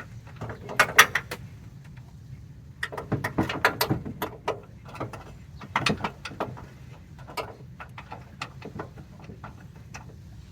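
Socket ratchet wrench clicking in short irregular runs as it works the idler arm's mounting bolt nuts loose, with the odd knock of metal on metal.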